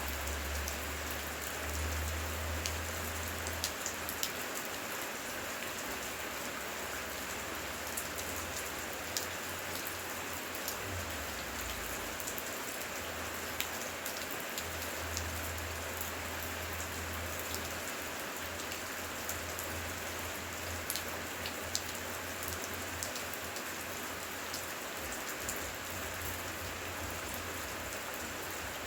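Steady heavy rain, a dense hiss with many sharp individual drop ticks through it and a low rumble that swells and fades underneath.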